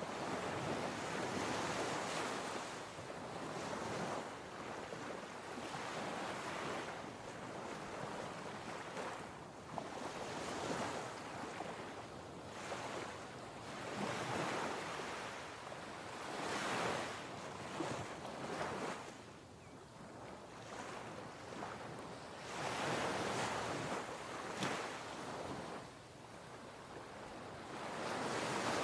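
Ocean surf: waves breaking and washing in, a hiss that swells and eases every few seconds.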